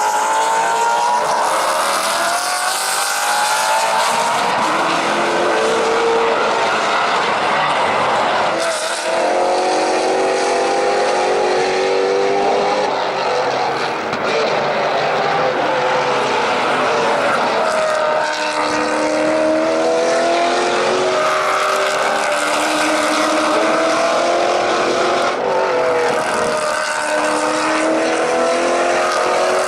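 Maserati GranTurismo MC Trofeo race cars' V8 engines at full racing speed, several cars at once, the engine note climbing again and again as they accelerate through the gears.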